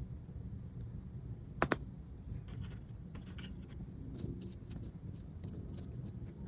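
Light scratching and small clicks of handwork on accordion reed plates and their leather valves, with a sharp double click about one and a half seconds in, over a low steady background rumble.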